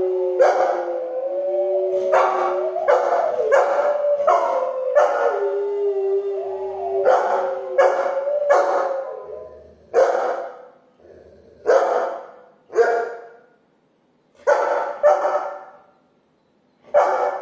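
A recorded chorus of dogs played through a small speaker: two dogs howling together under a run of loud barks, until the howling stops about seven seconds in. After that come single barks with quiet gaps between them, about six more, fading out.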